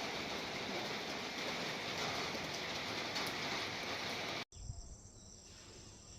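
Steady rainfall that stops abruptly about four and a half seconds in, giving way to quieter crickets chirping steadily.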